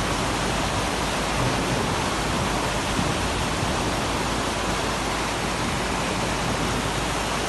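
Fast-flowing floodwater rushing steadily, an even noise with no breaks.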